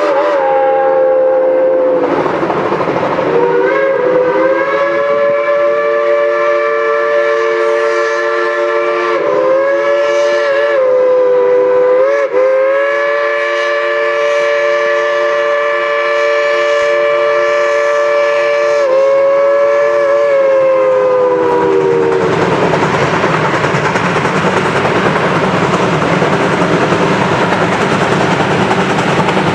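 Geared steam logging locomotive's steam whistle blowing long, drawn-out blasts with a few brief breaks for about twenty seconds, its pitch sagging as each blast tails off. It then stops, leaving the steady noise of the locomotive and train running.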